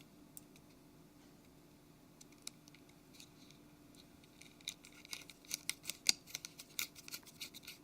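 A small Torx screwdriver driving tiny screws into a smartphone's plastic antenna frame: a quick run of light clicks and scratches begins a little past halfway through.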